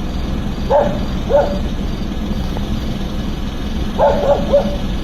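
Dog barking: two single barks about a second apart early on, then a quick run of three or four barks near the end, over a steady low hum.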